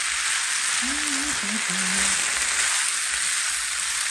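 Pasta, chicken, broccoli, carrots and corn sizzling steadily in a skillet over high heat while a spatula stirs them.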